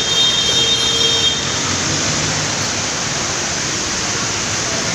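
Steady road traffic noise, with a high steady squeal during the first second and a half.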